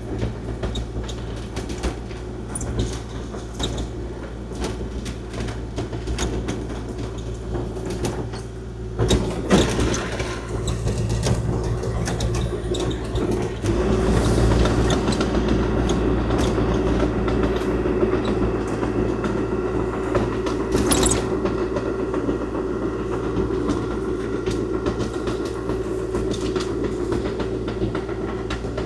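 Kubota KX040-4 mini excavator's diesel engine running steadily while it plows snow, with clattering from the tracks and blade and a few sharp knocks. The machine gets louder about halfway through.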